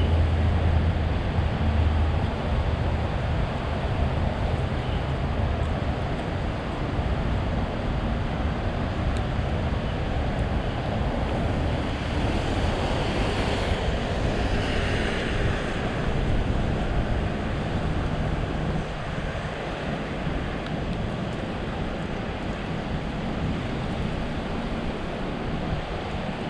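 Steady street ambience: a continuous wash of traffic noise, with a low engine hum near the start and a brighter rushing swell about halfway through, like a vehicle passing.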